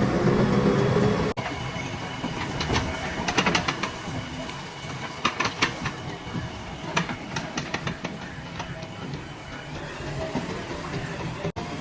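JCB 3DX backhoe loader's diesel engine running while digging, with several bursts of sharp metallic clanks and rattles from the bucket and linkage.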